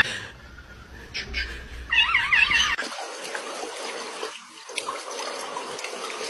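A domestic cat meows once, a wavering cry about two seconds in, followed by a steady rushing hiss like running water.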